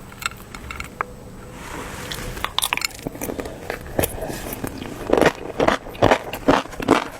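Close-miked eating: small wet clicks and bites, then from about five seconds in steady rhythmic chewing, about two or three chews a second.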